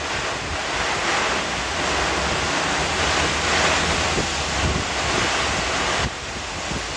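Typhoon wind blowing in strong gusts, a steady roar buffeting the microphone, easing slightly about six seconds in.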